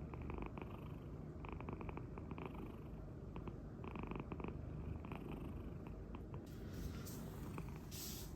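Munchkin cat purring steadily, with a faint hiss coming in near the end.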